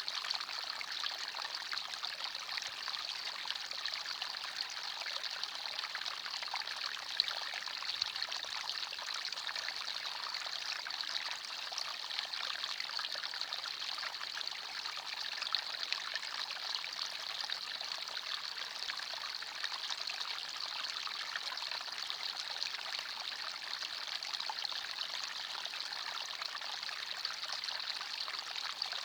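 Forest stream flowing steadily, water trickling and splashing over stones.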